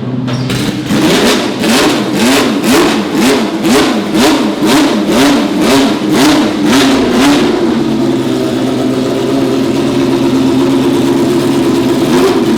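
Racing car engine revved in quick throttle blips, about two a second, each rising and falling in pitch. After about seven seconds it settles into a steady running note.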